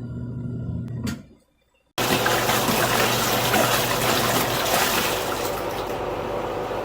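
Water rushing and churning in a portable twin-tub washing machine, with a faint low hum from its motor. It starts abruptly about two seconds in, after steady humming tones and a brief silence.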